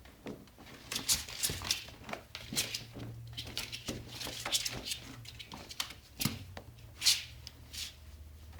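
Pet ferret dooking: a soft clucking chuckle in short, irregular bursts, several a second, the happy noise a ferret makes in excited play.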